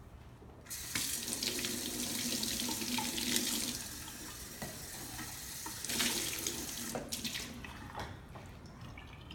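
Kitchen tap running into a sink, turned on under a second in. The flow eases partway through, surges again briefly around six seconds, then is shut off.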